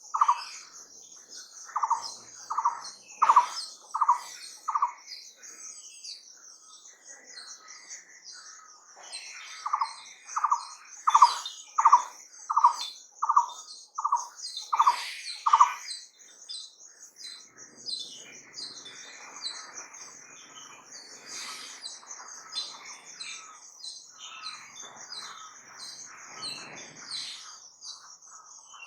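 Wild birds calling. One bird repeats a low whistled note about two or three times a second, in two runs separated by a pause. All the while a steady high, shrill trill goes on, and rougher chattering calls fill the second half.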